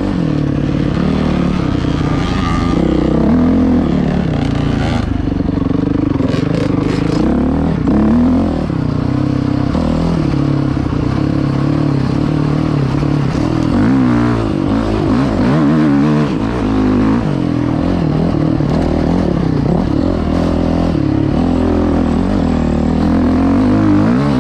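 Dirt bike engine running under load while being ridden, its revs rising and falling over and over. A few clattering knocks come about five to seven seconds in.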